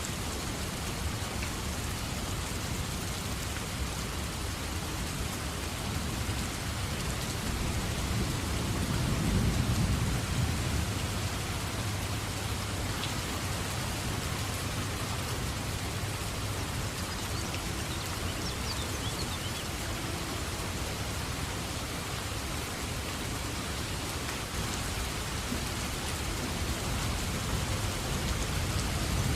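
Steady heavy rain, with a roll of distant thunder that swells low and deep from about seven seconds in and fades by about twelve seconds.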